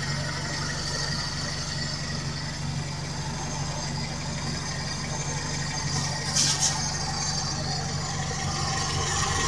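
Toyota 4K carbureted inline-four engine idling steadily. About six seconds in there is a brief hiss.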